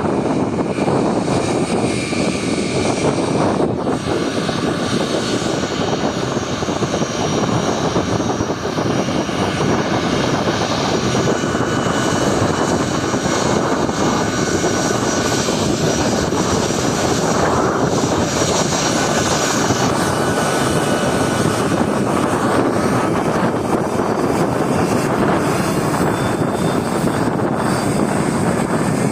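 Boeing 757's twin jet engines running at high power, a loud steady rushing roar with a faint high whine, as its jet blast sweeps over.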